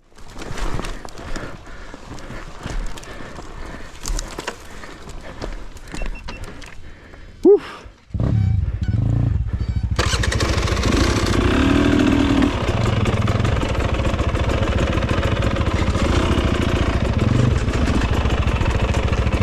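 Dirt bike engine starting about eight seconds in, then running steadily. Before it catches there are several seconds of scattered clicks and knocks, and a brief loud chirp just before it starts.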